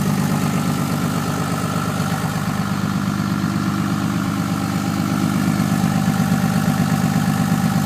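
2007 Ram 3500 pickup's engine idling steadily after a cold start, still cold and warming up after sitting two days in sub-freezing weather.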